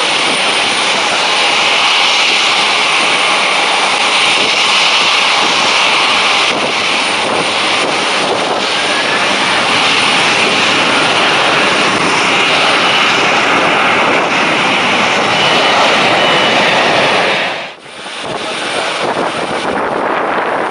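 Rolls-Royce Trent XWB turbofan engines of an Airbus A350-900 running after start: a loud, steady jet rush and whine, with wind buffeting the microphone. The sound drops out abruptly for a moment near the end, then comes back.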